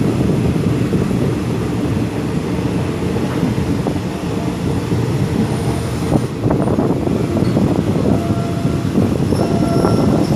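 Passenger train running on the rails with a steady heavy rumble; about eight seconds in, the wheels begin to squeal with thin, high steady tones that come and go.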